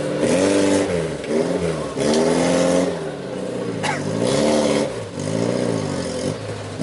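Off-road jeep's engine revved hard over and over, its pitch rising and falling about six times, with a rushing hiss during several of the revs.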